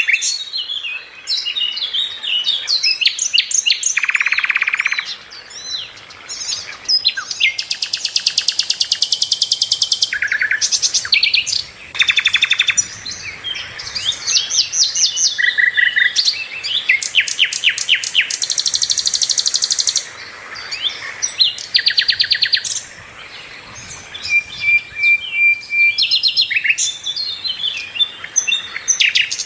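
A sikatan londo flycatcher singing a long, varied song of quick chirps, short whistled notes and fast rattling trills, with brief pauses between phrases.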